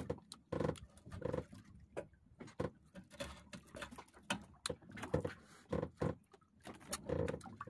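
A person chewing grilled fish with the mouth partly open: an irregular run of wet lip smacks and small mouth clicks.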